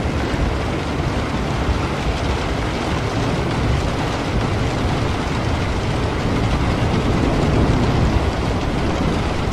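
Steady heavy rain with a low rumble of thunder underneath, swelling a little near the end.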